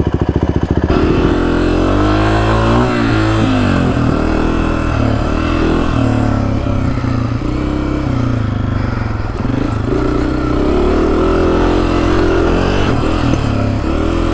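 2024 Honda CRF250F's air-cooled single-cylinder four-stroke engine pulling the bike along a dirt trail, its revs rising and falling with the throttle. It opens on a brief, evenly pulsing lower-revving engine before an abrupt switch about a second in.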